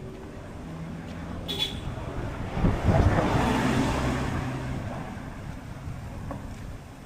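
Car on the move: steady engine and road noise, with a rush of traffic noise that swells about three seconds in and slowly fades, and a brief high chirp shortly before.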